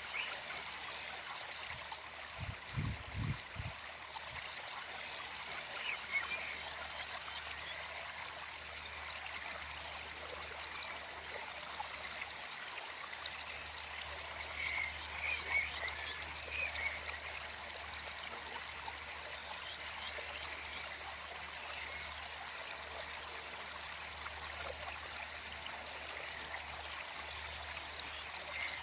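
A small forest stream flowing steadily, with a bird singing short, quick phrases of high chirps every several seconds over the water. A few low thumps come about three seconds in.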